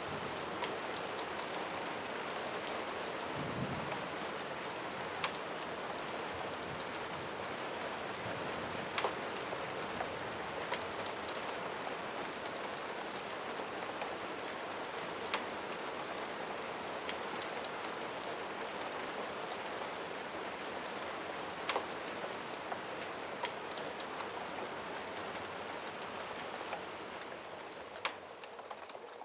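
Steady, dense rain falling, with a scattering of sharp ticks every few seconds. It eases off slightly near the end.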